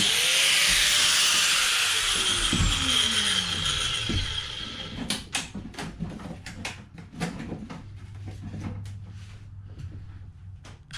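High-speed cutting tool switched off after cutting fiberglass, its whine falling in pitch over a few seconds as it spins down. It is followed by scattered sharp knocks and clatter of parts being handled.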